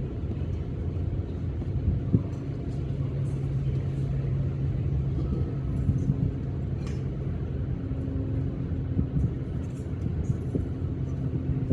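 Motor vehicle engine running with a low, steady rumble, and a steady hum that sets in about two seconds in and holds to near the end. Faint short high ticks come now and then.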